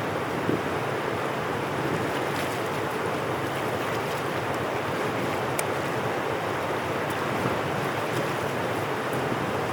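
Steady rush of rainwater flowing through a dam drainage channel, with a few small clicks.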